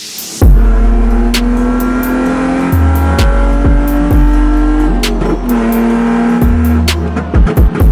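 Loud electronic music with heavy stepping bass and a steady beat, over a car engine accelerating through the gears. The engine's pitch rises slowly, drops at a shift about five seconds in, then climbs again.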